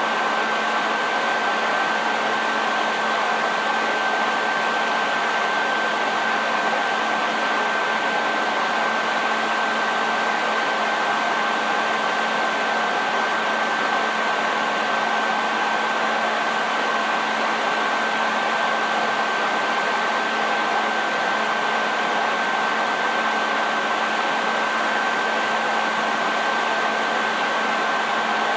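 Electric hair dryer running steadily: an even rush of blown air with a steady high whine from the motor and a low hum underneath.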